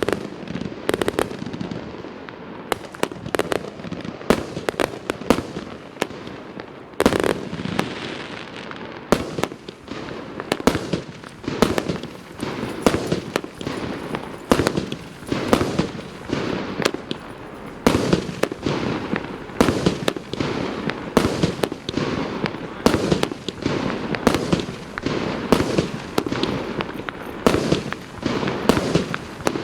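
A 37-shot, 1-inch (25 mm) consumer firework cake firing: a rapid, irregular series of launch thumps and aerial bursts, about one to two a second, each with a short crackling tail.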